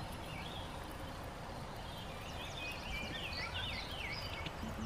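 A songbird singing short runs of quick chirping notes that zigzag up and down, twice, over steady low outdoor background noise.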